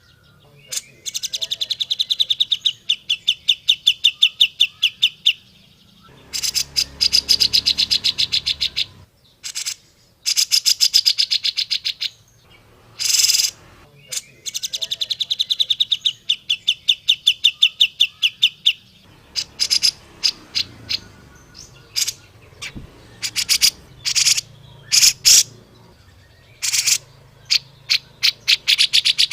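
Grey-cheeked bulbul (cucak jenggot) singing: long runs of fast, evenly repeated chattering notes, several a second, each run lasting a few seconds with short gaps and scattered single calls between.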